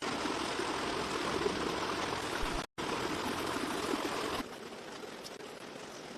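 Steady rushing water noise, cut off for an instant just under three seconds in and turning quieter at about four and a half seconds.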